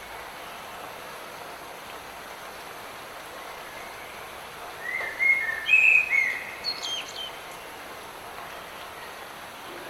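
Steady hiss of light rain, with a songbird singing a short phrase of clear whistled notes about five seconds in.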